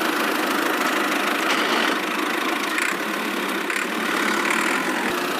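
A small motor running steadily, with no change in speed, from a miniature DIY construction machine.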